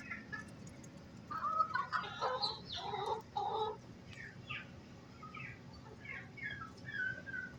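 Domestic hen clucking: a loud run of calls from about one to four seconds in, then shorter, quieter clucks.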